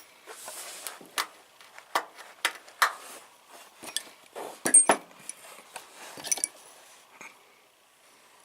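Metal hand tools such as punches and chisels clinking and rattling against each other in a tool box drawer as they are handled: a run of sharp clinks, the loudest about five seconds in, dying away after about seven seconds.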